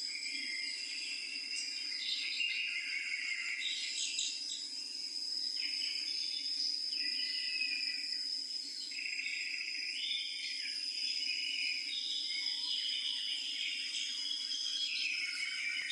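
Insects calling in chorus: a steady high-pitched trill with louder buzzing phrases coming and going over it.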